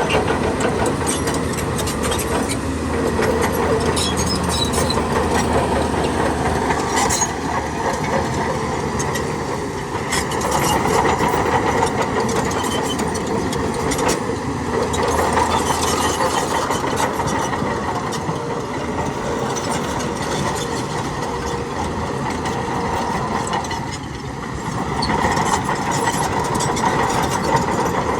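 Diesel engine of heavy earthmoving machinery running under load, swelling and easing several times, with scattered metallic clanks and knocks.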